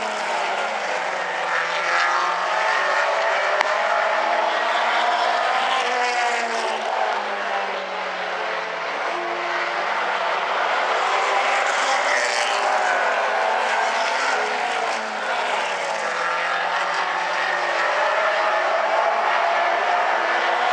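Late model stock car engines as the field laps a short oval, several cars overlapping, their engine pitch rising and falling as they accelerate off the corners and pass by.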